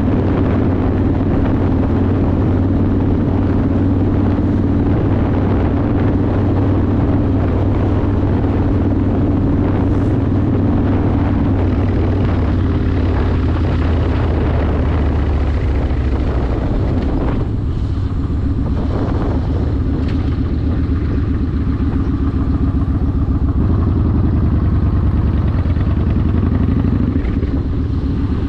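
Yamaha Warrior 1700's V-twin engine running steadily through a custom exhaust while riding. The engine note eases off a little past halfway, then picks back up.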